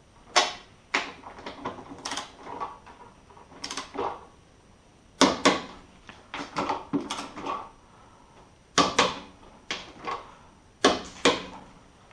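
Metal tools and parts being handled: irregular clusters of sharp clinks and knocks, several with brief metallic ringing.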